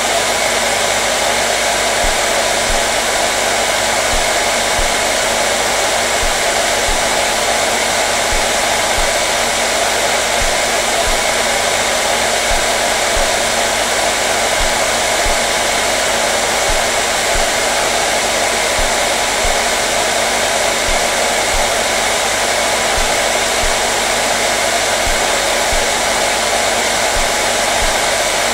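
Hair dryer running steadily, a constant even rushing whir that does not change.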